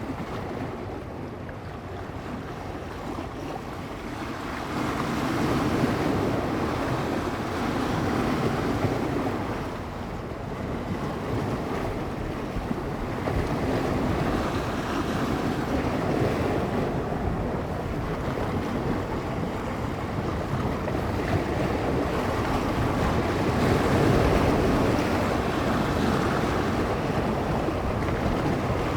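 Bay waves washing against the shore, a steady wash that swells and eases every several seconds, with wind gusting on the microphone.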